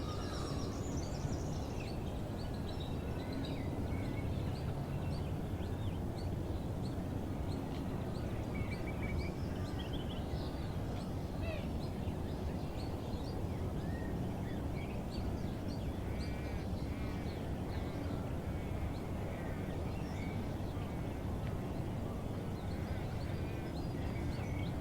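Morning bird chorus: many birds chirping and calling in short, overlapping phrases over a steady low rumble.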